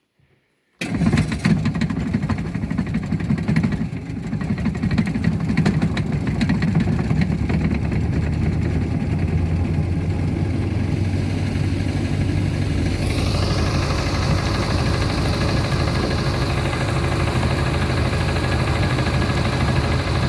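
A 1959 Johnson Super Sea-Horse 35 hp two-cylinder two-stroke outboard motor catching and starting about a second in, running unevenly for a few seconds, then settling into steady running. The sound turns hissier about two-thirds of the way through.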